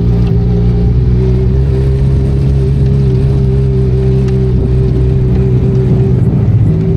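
Benelli Leoncino 500 Trail's 500 cc parallel-twin engine running at a steady speed under way, its pitch wavering and dipping briefly about six seconds in before settling back.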